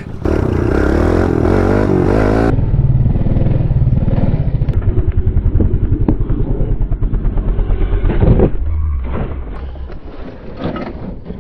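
Small single-cylinder pit bike engine running hard under throttle, its pitch rising and falling with the revs, then a fast, even pulsing; it eases off after about eight and a half seconds.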